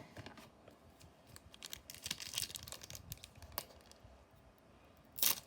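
Trading cards and a foil booster-pack wrapper being handled: soft scattered crinkles and card flicks, with a brief louder swish near the end.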